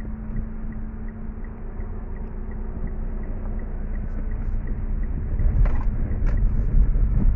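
Mitsubishi Lancer driving down a road with a steady low rumble of engine and tyres, growing louder toward the end, with a couple of light clicks about two thirds of the way through. There is no knock from the rear suspension, now fitted with new stabilizer-bar bushings.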